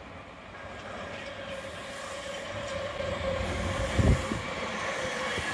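Hamburg S-Bahn electric train approaching and passing on the tracks, its rumble growing louder, with a steady whine from about two seconds in. A brief low thump about four seconds in is the loudest moment.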